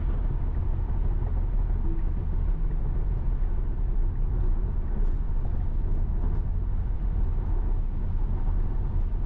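Steady low road rumble and tyre noise inside a Tesla Model Y's cabin at highway speed on a wet road in heavy rain, with a few faint scattered ticks.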